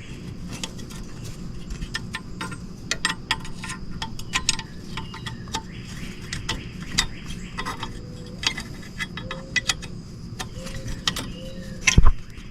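Irregular metallic clinks and ticks of hand tools and loosened bolts handled while taking apart a small two-stroke engine's cylinder, with one loud knock near the end.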